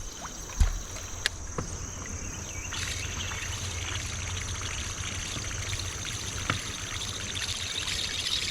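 River water trickling and lapping, with a steady high-pitched drone of insects over it and a couple of light knocks in the first two seconds.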